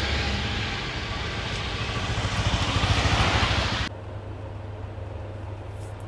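Outdoor traffic noise with a motor vehicle going by, swelling about three seconds in. It cuts off abruptly about four seconds in to a much quieter steady low hum.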